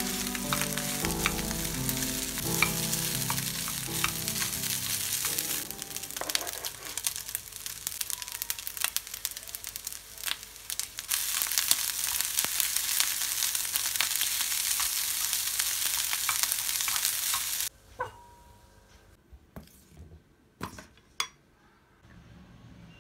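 Rice and scrambled egg sizzling in a hot nonstick frying pan, stirred and tossed with a wooden spatula. The sizzle cuts off suddenly after about eighteen seconds, followed by a few sharp clicks.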